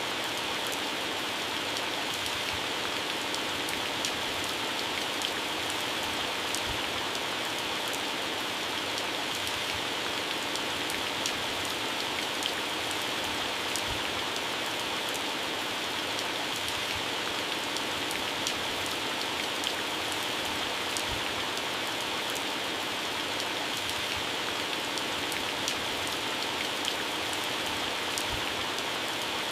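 Heavy rain falling steadily on garden plants and grass, a dense even hiss with many individual drops pattering on leaves.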